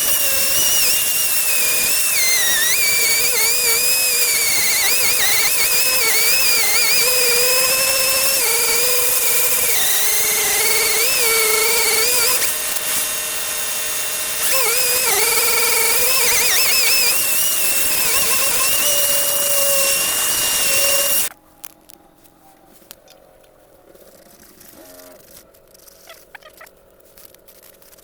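Handheld power tool running with a loud hiss and a whine that wavers in pitch as it is pressed and eased, dipping briefly about halfway, then cutting off suddenly about three-quarters of the way through; a few light clicks and knocks follow.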